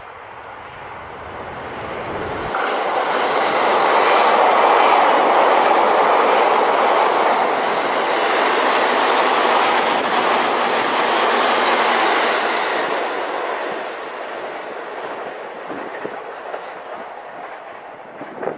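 A train going by on the rails. The noise of wheels on track swells over about four seconds, stays loud for about eight, then fades away.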